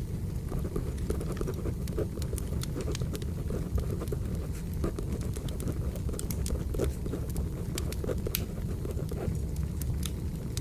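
Crackling wood fire: a steady low rush with frequent sharp pops and snaps, layered with the scratching of a pencil writing on paper.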